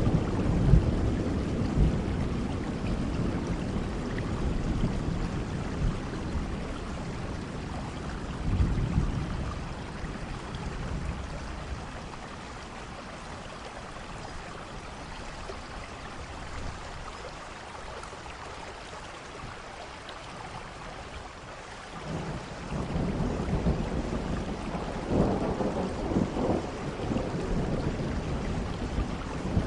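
Steady rain with rolling thunder: low rumbles swell at the start and again about a third of the way in, ease off to rain alone, then build back up near the end.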